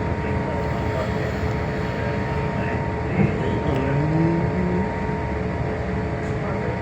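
Scania K320HB bus's five-cylinder diesel and drivetrain running steadily, heard inside the cabin as a low rumble with a steady whine over it. A short knock comes about three seconds in.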